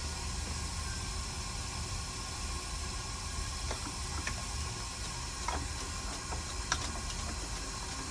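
Steady fan-like hiss with a low hum from the electronics repair bench while a corroded capacitor is being replaced, with a few faint small ticks from about halfway through.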